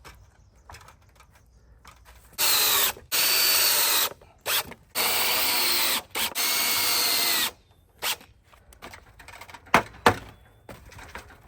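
Power drill driving screws into a fence board: several runs of a second or two each, the motor pitch dropping as the screw bites, followed by a few sharp knocks.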